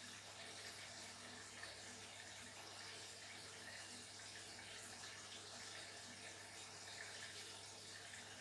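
Beko WTK104121W washing machine taking in water: a faint, steady rush of water with a constant low hum underneath.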